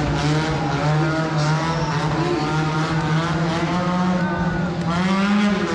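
Monster truck engines running loud, revving up and down over a steady low drone.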